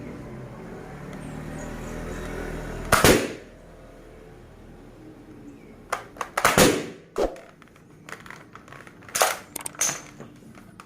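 Toy gun being test-fired. A steady pitched sound runs for about three seconds and ends in one loud, sharp shot. More sharp cracks and clicks come about six to ten seconds in.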